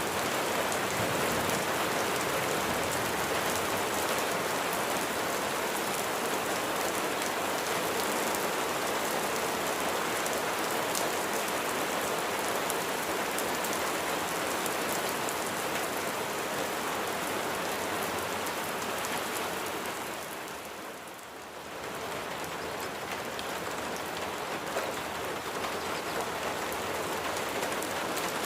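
Steady heavy rain falling, a dense hiss with fine drop crackle. About twenty seconds in it briefly thins and fades, then comes back to full strength.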